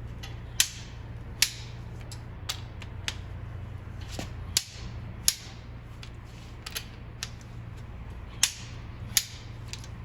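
Sharp metallic clicks, about a dozen spread irregularly, the loudest coming in pairs under a second apart: a click-type torque wrench signalling that cylinder head bolts on a GMC Yukon V8 have reached torque. A steady low hum runs underneath.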